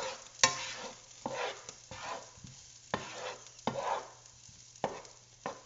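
Onions sautéing in butter in a pan being stirred: a utensil knocks and scrapes against the pan about once a second, at uneven intervals.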